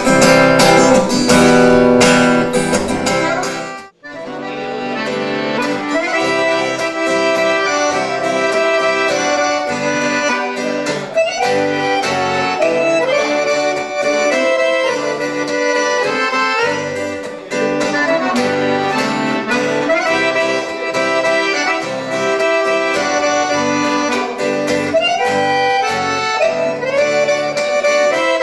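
Instrumental music: an accordion plays the melody over strummed acoustic guitar. It opens with a few seconds of guitar strumming, breaks off briefly about four seconds in, then continues with the accordion leading.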